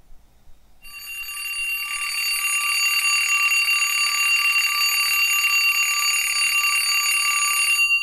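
Alarm clock bell ringing without a break, coming in about a second in and growing louder, then holding steady until it stops just before the end.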